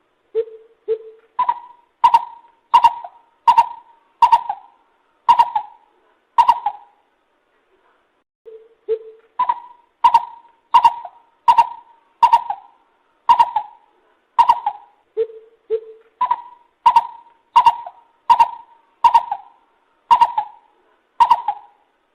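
Lesser coucal (Centropus bengalensis) calling in hooting notes. There are three phrases, each opening with two lower notes and then stepping up to a run of about eight higher notes, spaced well under a second apart. There is a short pause after the first phrase.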